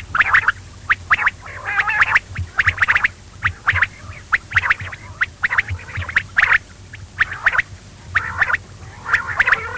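Quail calling: quick runs of short, sharp chirping notes in clusters, about one cluster a second.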